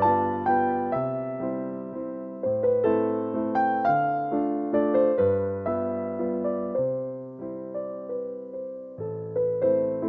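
Background music: a gentle piano melody with a slow bass line, notes struck and left to ring.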